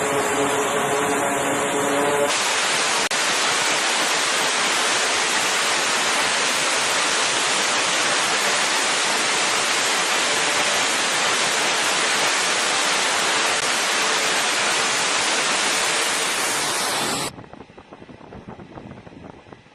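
Aircraft jet engines on a carrier flight deck. For the first two seconds an engine whine with steady tones runs over a rushing noise; then a loud, even rushing roar takes over and cuts off abruptly about seventeen seconds in, leaving a much quieter background.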